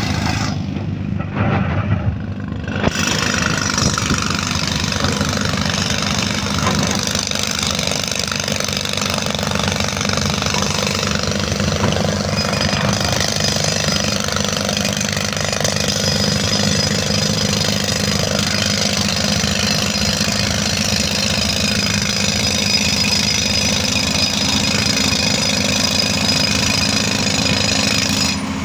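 Diesel tractor engine running steadily, with a dense rattling knock.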